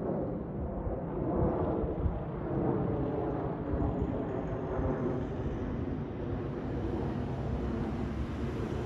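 Red electric multiple unit approaching the station, its running rumble steady, with wind buffeting the microphone.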